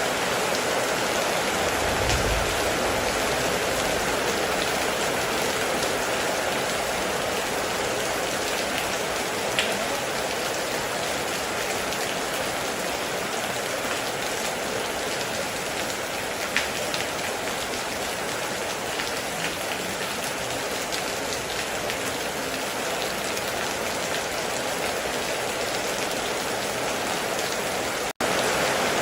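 Heavy rain falling steadily on a metal roof, with a few louder drops ticking now and then. A brief low rumble comes about two seconds in, and the sound cuts out for an instant near the end.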